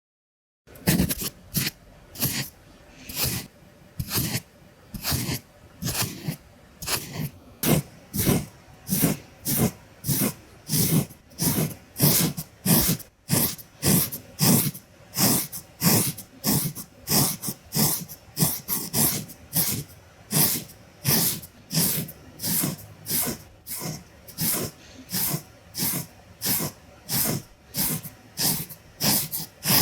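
Makeup pencil traced with quick, even strokes against the microphone or lens, a short scratchy swish about twice a second, starting about half a second in.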